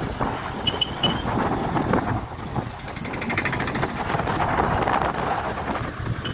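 Honda Hornet 160R motorcycle on the move, its single-cylinder engine running under a steady rush of wind on the microphone, the wind noise growing a little in the second half.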